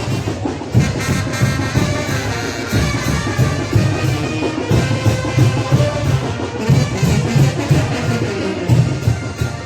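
Mexican brass wind band playing chinelo dance music: trumpets and trombones carry the melody over a steady drum beat.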